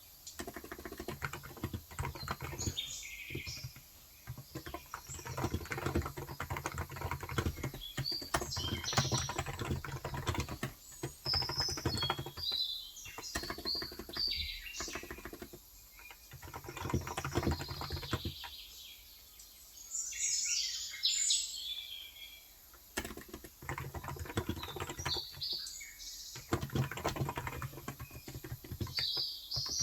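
Typing on a Cox Endeavour electrostatic capacitive keyboard with 35 g switches: runs of soft keystrokes with a pause of a few seconds past the middle. Small birds chirp in the background throughout, heard most clearly in the pause.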